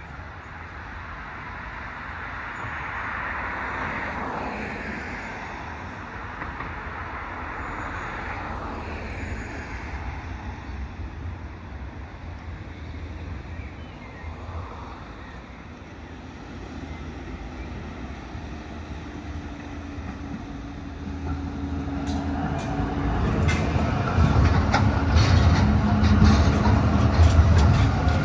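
Vehicle rumble that builds up and grows much louder in the last third, with steady tones and a quick run of clicks and knocks near the end.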